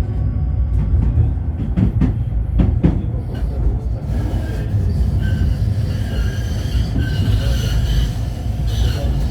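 A 71-911EM low-floor tram running, heard from inside the car: a steady low rumble with a few sharp knocks about two seconds in. From about halfway, high steady whining tones of wheel squeal join the rumble.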